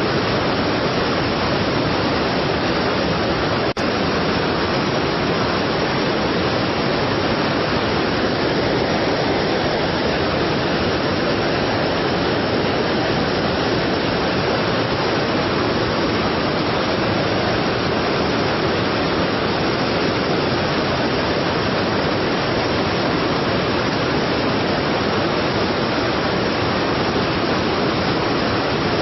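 Strong waterfall: a steady, even rush of falling water, with a momentary break about four seconds in.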